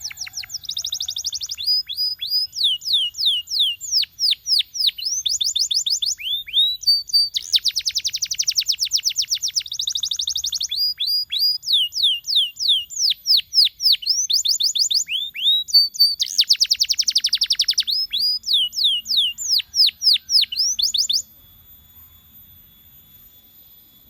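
Domestic canary singing: fast rolling trills alternate with runs of high, downward-sweeping whistled notes. The song breaks off suddenly near the end.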